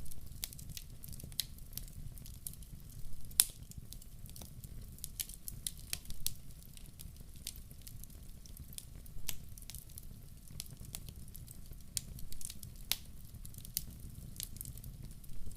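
Wood fire crackling in a fireplace: irregular sharp pops and snaps over a low steady rumble of the burning fire, with one louder pop a little over three seconds in.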